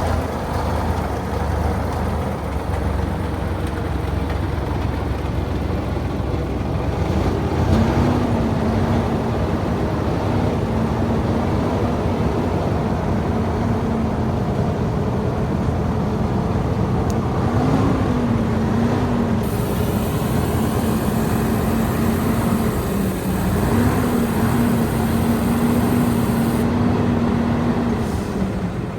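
Old heavy truck's diesel engine running under load. About eight seconds in, a steady droning note joins the engine noise; it wavers twice and fades near the end.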